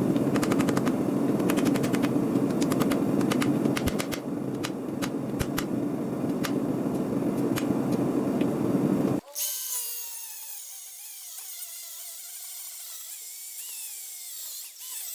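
Metalworking noise while a steel knife is being forged: a loud, steady roar with many sharp, irregular clicks and impacts. About nine seconds in it cuts off abruptly, giving way to a quieter, thin sound of wavering high tones.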